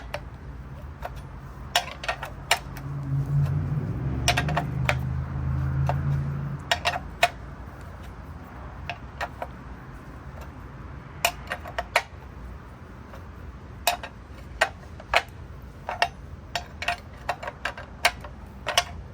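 Sharp metallic clicks from a hand wrench as bolts are run in on the engine, in short irregular clusters. A low hum comes in for a few seconds about three seconds in.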